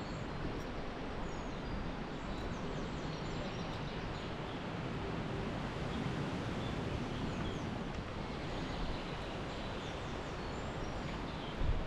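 Steady wind through woodland, with scattered faint bird chirps above it.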